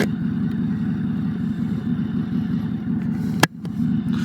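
Harley-Davidson Road Glide's V-twin engine idling with a steady low, lumpy pulse. A single sharp click comes about three and a half seconds in.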